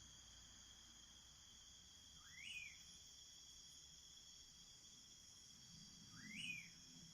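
Faint night ambience of crickets trilling steadily. A short rising call sounds twice, about four seconds apart.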